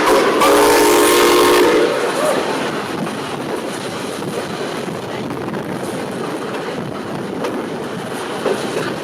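Steam whistle of the Rx207 steam locomotive blowing a chord of several notes, with a short break just after the start and cutting off about two seconds in. After it, the steady rushing noise of the train running on the track.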